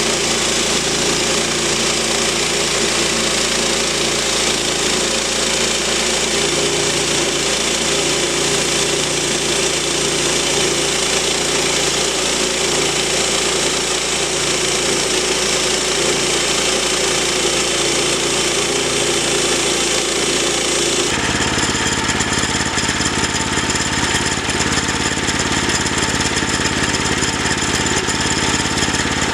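A steady-running engine. About twenty seconds in, the sound changes abruptly to a different steady engine note.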